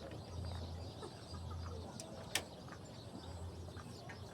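Chickens clucking faintly over a low hum that comes and goes, with one sharp click about two and a half seconds in.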